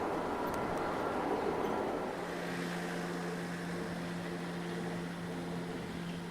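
Diesel train: a rumbling, noisy passage for about the first two seconds, then a steady engine drone holding one pitch.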